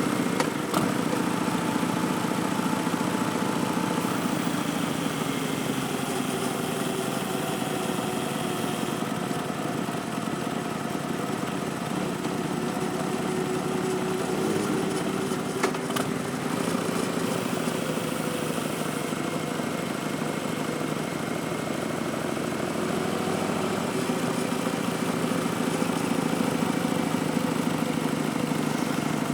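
2019 Harley-Davidson Street Bob's Milwaukee-Eight V-twin running through a Vance & Hines Twin Slash slip-on exhaust as the bike is ridden, its note rising and falling gently, with a steady hiss of wind and road noise. Two sharp clicks come about a second in and again about halfway through.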